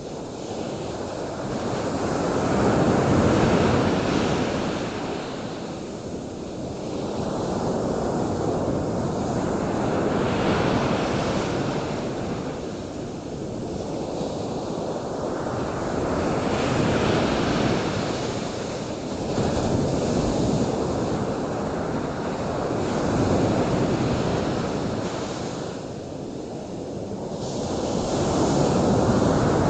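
Surf washing in: a rushing noise that swells and falls back every few seconds, with no steady tone in it.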